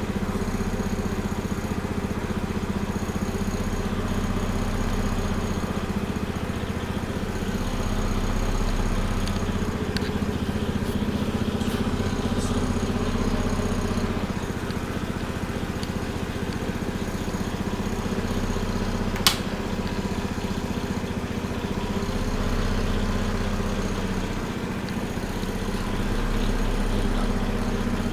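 A small engine running steadily at constant speed, with one sharp click about two-thirds of the way through.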